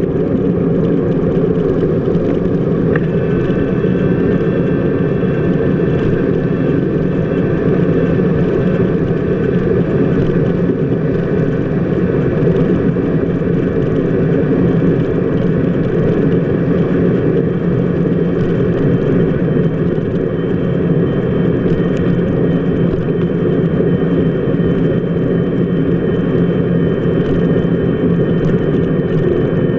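Steady rumble of a bicycle wheel rolling along a rain-wet city street, picked up through a camera mounted on the wheel hub, with a faint high whine running over it.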